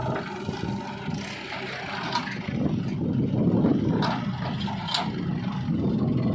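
Diesel engine of a JCB 3DX backhoe loader working, swelling in the middle, with scraping and a few sharp knocks as it loads mud.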